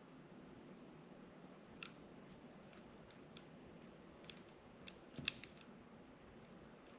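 Near silence broken by a few faint, sharp clicks of small hand tools working on wire and terminal pins, the sharpest about five seconds in.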